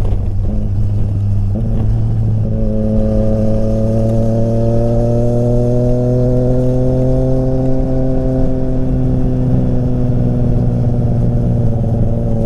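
Triumph Street Triple RS three-cylinder engine through an SC-Project exhaust, running under load while riding. Its note changes about two seconds in, then climbs slowly for several seconds and eases off slightly.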